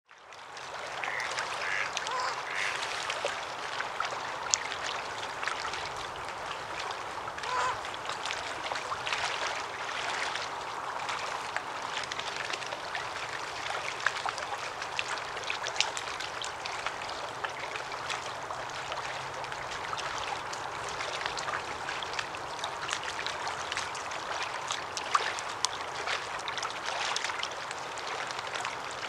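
Lakeside wetland ambience: many water birds calling at once, with quacking and honking calls, over a steady rushing background, and a few sharp clicks.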